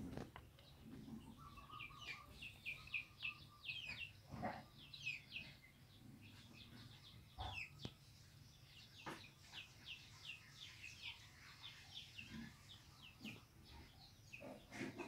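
Faint, high-pitched chirping of small birds: quick series of short falling chirps repeating throughout, with a few soft knocks in between.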